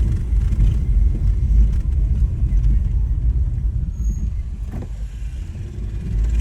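Steady low rumble of a moving vehicle travelling along a road.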